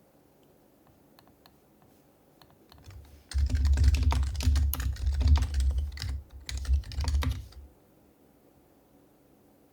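Fast typing on an HHKB Professional Hybrid Type-S keyboard with Topre capacitive switches: a few faint scattered key clicks, then a dense run of quick keystrokes lasting about four seconds, each with a dull thud.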